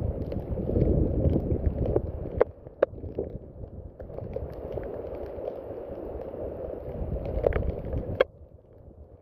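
Rain falling steadily, with scattered sharp drop taps over a dense low rush. It eases about two and a half seconds in, builds again, then drops away abruptly a second before the end.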